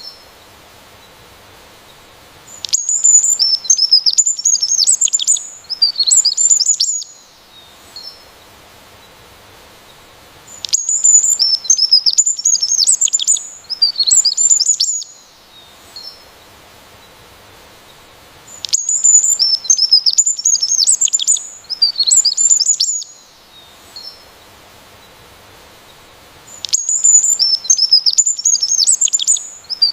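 A songbird singing bursts of rapid, high-pitched chirps and trills, each burst about four seconds long and followed by a pause of about four seconds, the same song phrase recurring every eight seconds or so.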